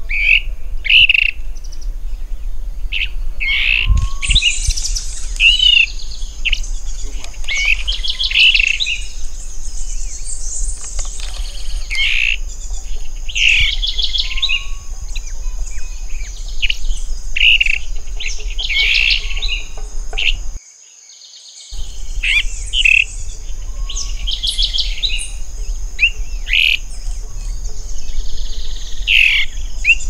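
Birds calling, short chirping calls repeated every second or two, over a steady high-pitched buzz; the sound cuts out for about a second just past twenty seconds in.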